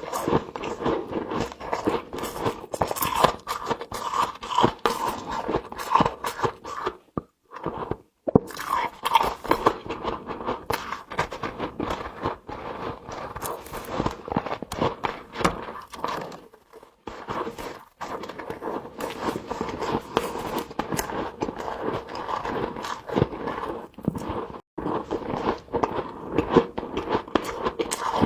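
Close-up crunching and chewing of mouthfuls of humidifier frost, a dense run of crisp crackles with a few short breaks.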